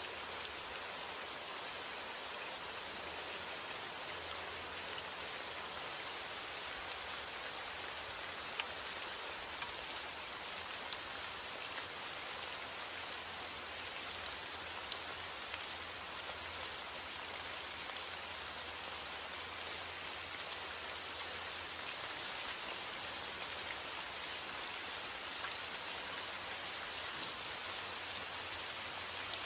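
Steady heavy rain: a dense, even hiss of rainfall with scattered ticks of individual drops.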